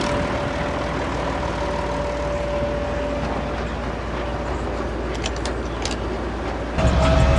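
Tractor diesel engine running steadily under way, with a constant thin whine over a low rumble. Near the end it suddenly gets louder and deeper.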